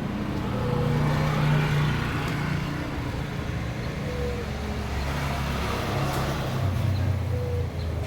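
Road traffic: motor vehicles running and passing, with a low engine hum that swells louder about a second in and again near the end.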